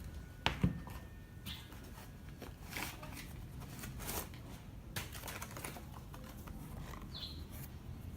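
Light handling noise from unboxing shoes: scattered small clicks, taps and rustles at an irregular pace, with two sharper clicks about half a second in.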